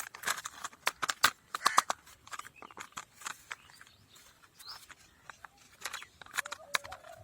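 Plastic toy car parts clicking and clattering in the hands as the lower body piece is fitted onto a toy car, in a quick irregular run of sharp clicks.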